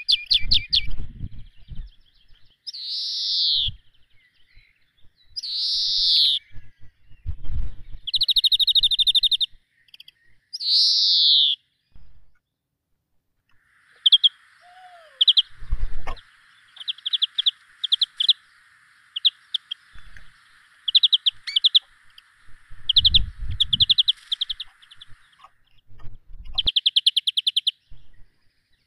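Small birds chirping and singing: rapid buzzy trills and short chirps repeated with pauses between them. A faint steady hiss runs through the middle, and a few low knocks come now and then.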